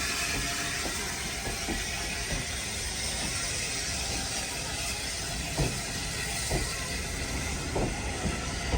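Railway train running on the track: a steady rushing hiss, with sharp knocks about once a second in the second half.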